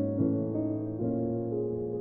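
Solo MIDI piano playing a slow, relaxing original piece: sustained chords ring on while new notes are struck about every second.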